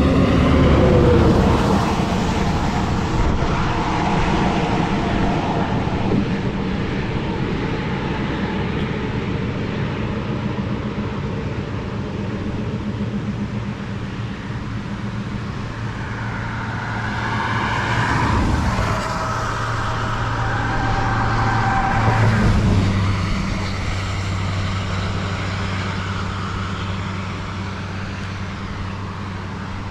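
A car driving: steady engine hum with road noise, the engine note shifting twice past the middle.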